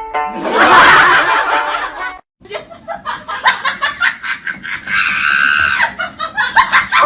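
A loud rushing noise for about a second and a half, then a sudden cut. After it, people laugh in short, quick repeated bursts.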